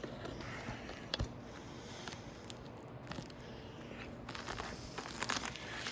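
Faint rustling and handling noises with a single sharp click about a second in and a few light knocks near the end.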